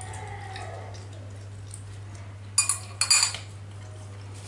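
Utensils clinking against a dish or bowl twice, a little over two and a half seconds in and again about half a second later, each clink ringing briefly. A faint steady low hum runs underneath.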